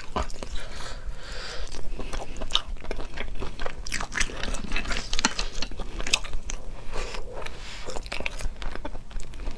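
Eating sea snails: chewing and biting the snail meat, with many short, sharp clicks and smacks.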